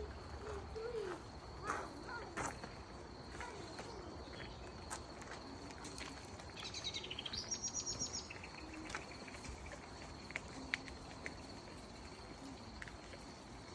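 Forest ambience: a songbird sings one fast trill of high repeated notes about halfway through. Under it are a steady thin high tone and scattered small clicks.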